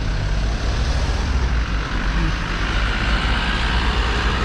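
Street traffic: a motor vehicle's engine running close by, a steady low rumble, with its noise swelling about two seconds in as it nears or passes.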